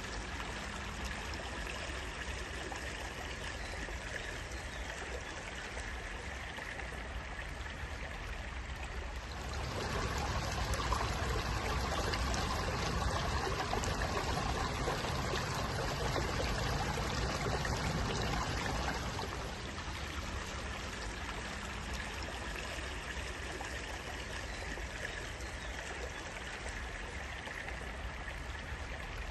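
Water flowing steadily in a stream, a continuous rushing and trickling that grows louder and fuller for about ten seconds in the middle before settling back.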